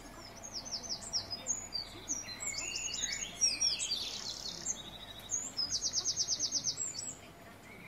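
Several songbirds chirping and singing in quick, high downward-sweeping chirps, with a rapid even trill of about a dozen notes about two-thirds of the way through.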